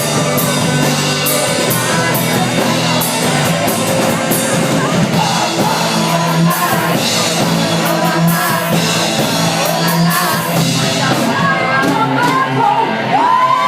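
Rock music with singing, played live by a band. Near the end, rising shouts from the audience begin.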